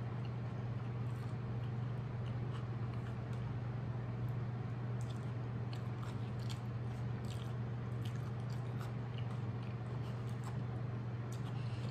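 Close mouth sounds of a person chewing a mouthful of burger: soft scattered clicks and smacks over a steady low hum.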